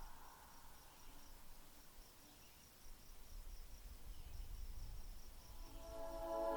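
Faint cricket chirping, a regular high-pitched pulse about four times a second, with a low rumble in the middle. Music swells in near the end.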